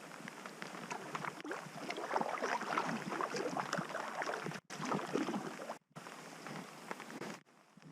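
River water splashing and lapping around a packraft, a run of small irregular splashes, cut off abruptly twice for a moment.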